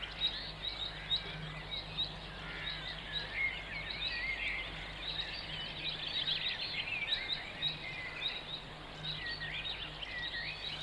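Songbirds chirping and singing outdoors, many short overlapping calls, over a faint steady low hum.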